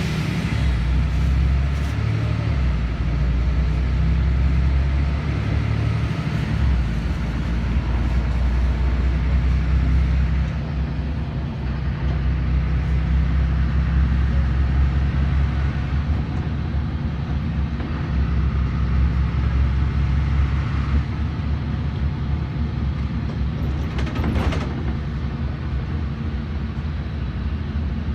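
LiAZ 5292.21 city bus under way, heard from inside the cabin: a steady low engine rumble with road noise, and a brief knock a little past the middle.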